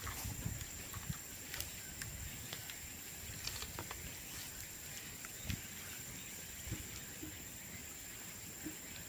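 Bonfire of cut bamboo crackling, with scattered sharp pops and ticks every second or so over a low rustle.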